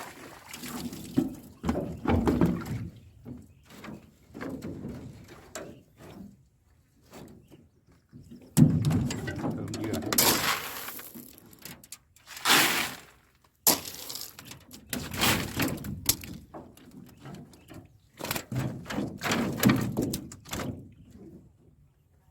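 Irregular splashing and pouring water with knocks and thuds, from a fish trap and its catch being handled in a boat; the loudest thud comes about eight seconds in.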